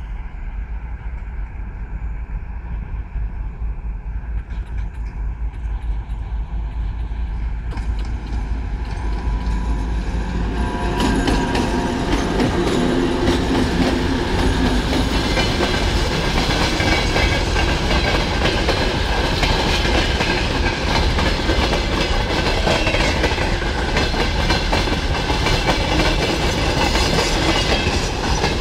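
A twin-section 2M62 diesel locomotive approaches with its two-stroke diesel engines running, growing steadily louder until it passes close by about eleven seconds in. After that the freight train's hopper wagons roll past, their wheels clacking on the rails in a steady, dense clatter.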